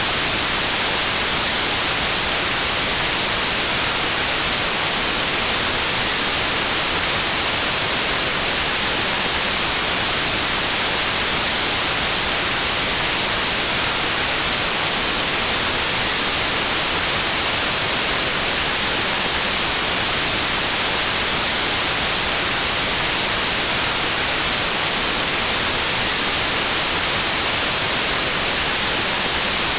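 Steady white noise: an even, unbroken hiss that never changes in level.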